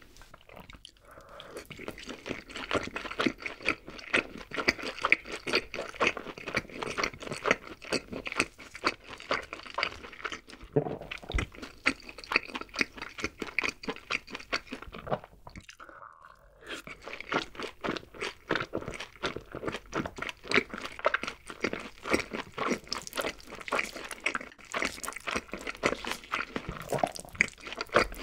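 Close-miked crunching and chewing of fried chicken coated in green-chili mayonnaise sauce: rapid crisp crackles of the fried crust between the teeth. There is a short pause about halfway through, then the chewing resumes.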